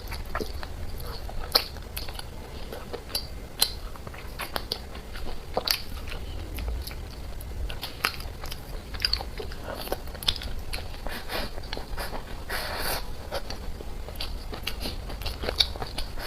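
A person eating close to the microphone: chewing and biting, with many irregular sharp mouth clicks and small crunches.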